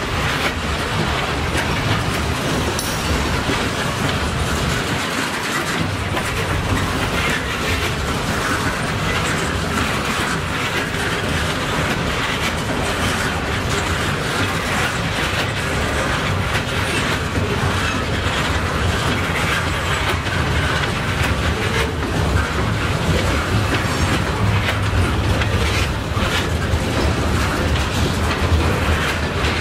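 Hooded steel coil cars of a freight train rolling steadily past, the wheels clicking and clacking over the rails.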